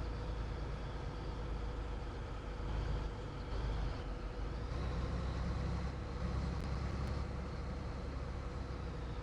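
Scania 113H truck under way: a steady engine rumble with road noise and a constant hum over it.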